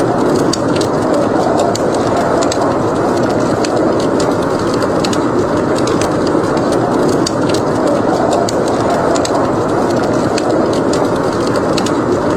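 Steady rush of blizzard wind with a wood fire crackling over it in frequent small sharp pops.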